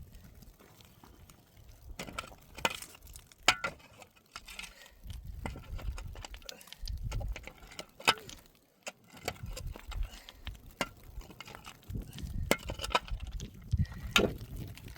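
Scattered clinks and sharp knocks of small hard objects being handled, over a low, uneven rumble.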